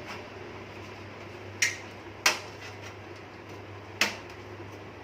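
Three sharp metallic clicks, the loudest soon after two seconds in: a thin stamped-metal motherboard I/O shield being pressed and snapped into its opening at the back of a computer case.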